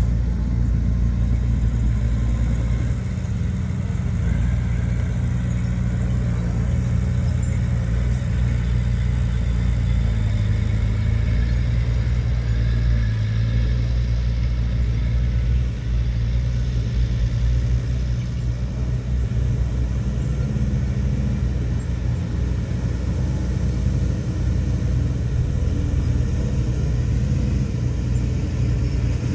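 Heavy earthmoving machinery's diesel engine running steadily under load, a deep continuous rumble whose pitch shifts slightly.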